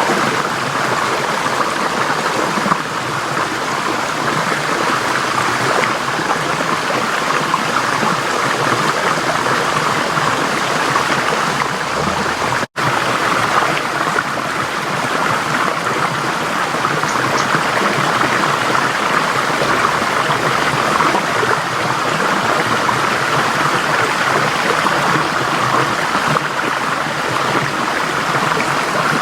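Forest stream flowing steadily, an even rush of water, with a split-second dropout about halfway through.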